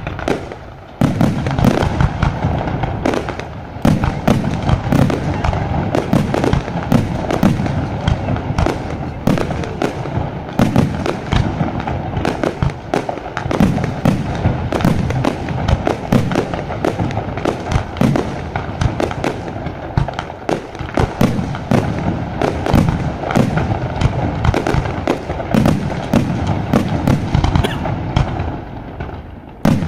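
Fireworks display going off in a dense, continuous barrage of bangs and crackles over a deep rumble, with a brief lull just after the start and easing off near the end.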